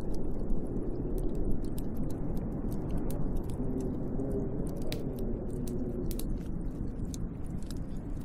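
Snowstorm wind blowing steadily, heard from indoors as a deep, even rush, with many small sharp ticks scattered through it.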